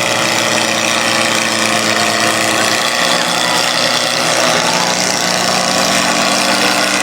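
Tractor diesel engine running steadily, its note shifting slightly about three seconds in.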